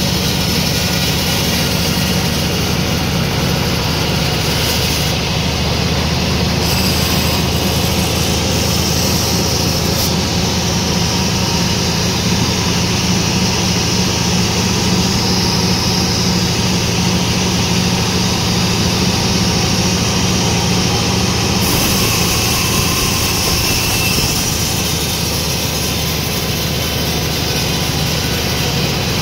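Sawmill machinery running with a loud, steady drone. Its tone shifts a little about two-thirds of the way through.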